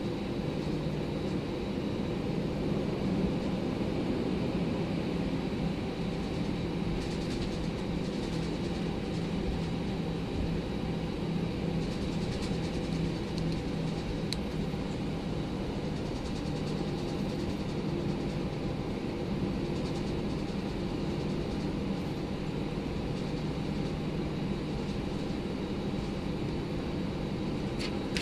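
Steady cabin drone inside an Airbus A319 airliner: engine and airflow noise as a constant hum with a faint high whine, unchanging throughout.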